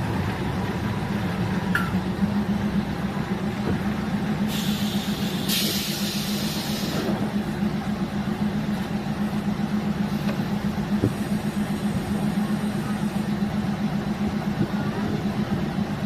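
Diesel multiple-unit railcar running with a steady low drone. A burst of hissing comes about four and a half seconds in and lasts some two and a half seconds.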